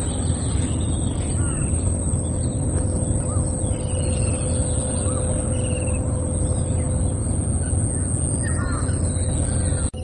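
Small birds giving short, scattered chirps over a steady low rumble, with a constant high-pitched whine.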